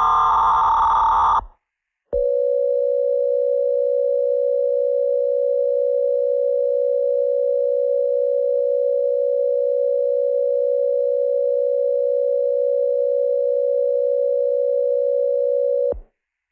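Emergency-alert broadcast tones: the last of the buzzing digital header bursts ends about a second and a half in. After a short gap, a single steady attention tone sounds for about fourteen seconds and cuts off abruptly near the end.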